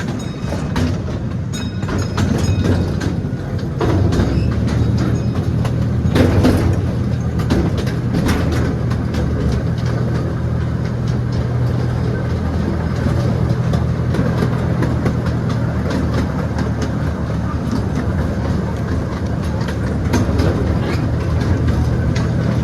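Miniature train running along its track, heard from aboard: a steady low engine hum with the wheels clicking over the rail joints, and a louder clatter about six seconds in.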